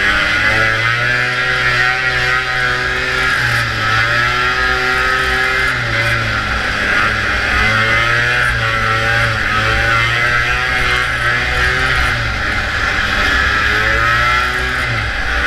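Vintage two-stroke snowmobile engine running hard at race speed. Its pitch dips and climbs back up a few times, around 6, 12 and 15 seconds in, as the throttle is eased and reopened.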